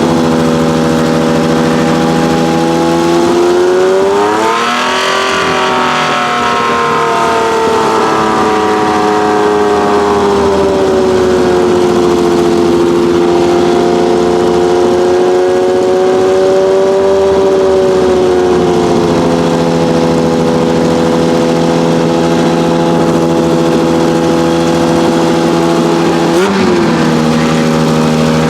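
Ferrari 1512's 1.5-litre Tipo 207 flat-12 engine running at a mostly steady, held engine speed. Its pitch rises and falls a few seconds in, eases down gradually later, and gives a short blip near the end.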